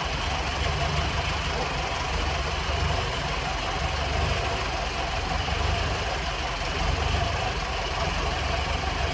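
Engine running steadily at a constant speed, with an even low beat and no change in pace.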